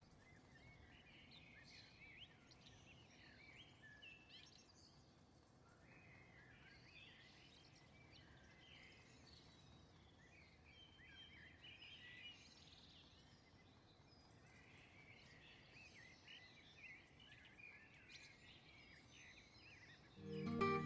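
Faint birds chirping and singing, many short call notes throughout over low background noise. Acoustic guitar music comes in near the end.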